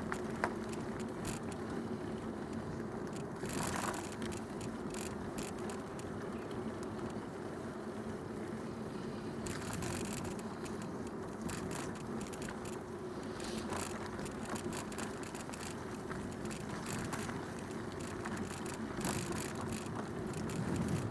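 Bicycle riding along a canal towpath: steady tyre rumble and hum, with brief rattles now and then and a sharp click about half a second in.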